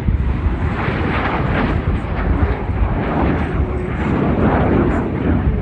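Aircraft engine noise: a loud, steady rushing rumble.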